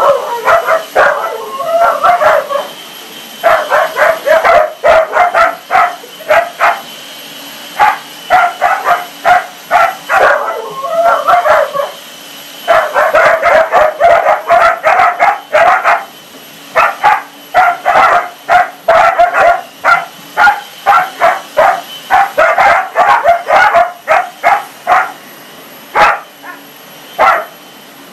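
A dog barking in fast runs of short, yappy barks with brief pauses between the runs, over a steady background whine.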